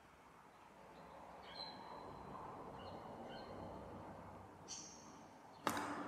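An Indian parakeet gives a few short, high chirping calls over a soft noisy rustle that swells and fades. A single sharp click comes near the end.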